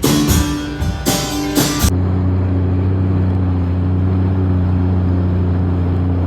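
About two seconds of guitar music, then a vehicle engine running with a steady low drone that does not change: the Jeep running.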